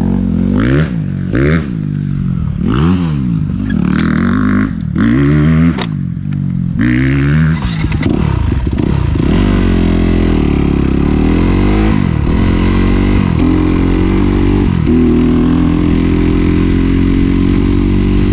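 Dirt bike engine being ridden hard: for the first eight seconds it revs up and drops back about once a second, then it runs on more steadily, with a few rises and drops as it changes gear.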